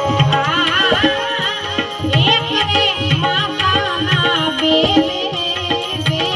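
Indian devotional folk music of a santvani bhajan: tabla keeps a steady repeating beat under steady held notes, with a wavering, ornamented melody line above.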